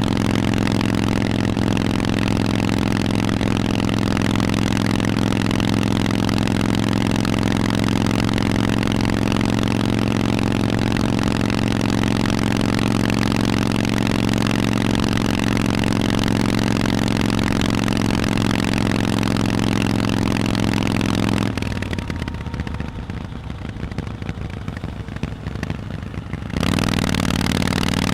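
Harley-Davidson Forty-Eight's air-cooled 1200 cc V-twin running through Vance & Hines exhausts at steady revs. Near the end the engine note drops out to a weaker, ragged noise for about five seconds, then returns abruptly.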